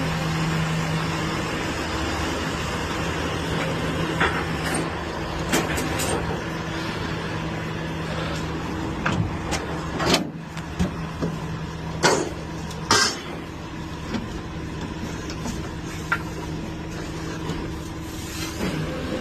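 Rollback tow truck's diesel engine running steadily during loading, with a few short sharp noises from the truck and its load.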